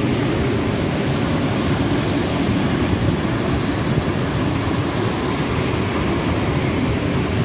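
Freight train of empty open-top wagons rolling past, a steady low rumble.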